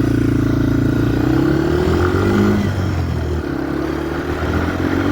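Yamaha TW200's single-cylinder four-stroke engine running while riding. Its pitch rises, drops briefly a little past halfway, then rises again.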